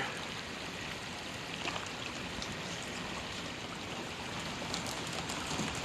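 Steady rain falling, an even hiss with a few faint drop taps.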